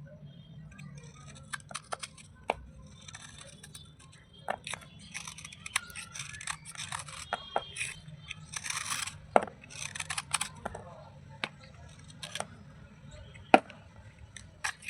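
Slate pieces crunching and cracking: scattered sharp snaps with a busier stretch of gritty crackling in the middle, and one loud snap near the end.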